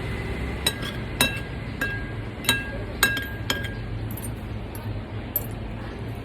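Cutlery clinking against tableware: about six sharp, ringing clinks in quick succession, then a few fainter ones.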